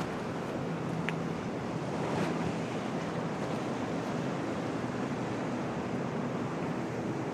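Stormy harbour ambience: a steady rush of waves and strong wind, with wind buffeting the microphone and a faint low hum underneath.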